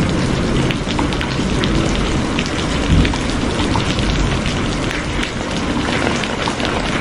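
Steady heavy rain, a dense patter of drops hitting a surface over a low rumble, with a brief louder low thump about three seconds in.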